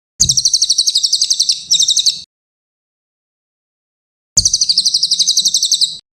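Cililin bird singing two rapid, high-pitched trills of about a dozen notes a second, each about two seconds long, with a short break near the end of the first.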